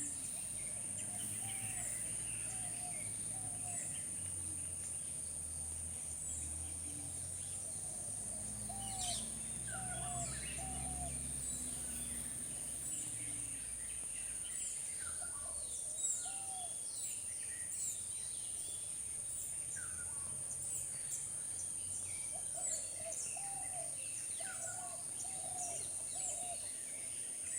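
Birds and insects outdoors: a steady shrill insect drone runs throughout, while birds give short repeated chirps and quick falling whistles. A low hum comes and goes in the first half.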